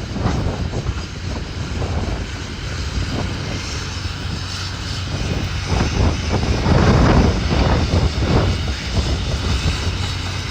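Heavy demolition machinery's diesel engine running steadily, with irregular crashes and knocks of breaking and falling building debris, loudest about seven to eight seconds in.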